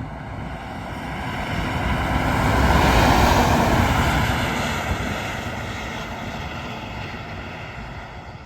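A heavy truck driving past on the highway, its engine and tyre noise swelling to a peak about three seconds in and then fading away.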